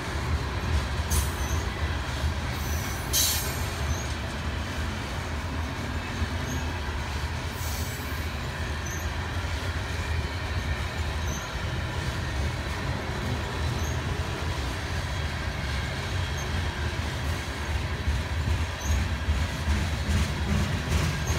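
Freight train's covered hopper cars rolling past: a steady rumble of steel wheels on the rails, with faint wheel squeal and a few sharp clanks near the start.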